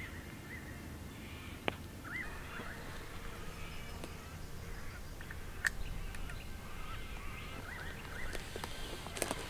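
Wild birds chirping in short bursts of quick up-and-down notes, over a low steady background. Three sharp clicks or knocks break in, one early, one in the middle (the loudest) and one near the end.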